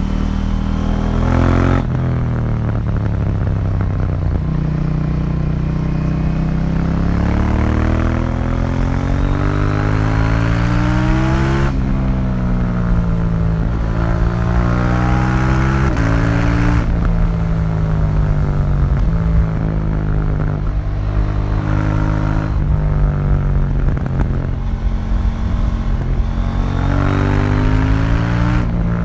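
2018 KTM 790 Duke's parallel-twin engine through its stock exhaust, pulling hard with the revs climbing and then dropping sharply at each gear change, several times over, with stretches where the revs fall off.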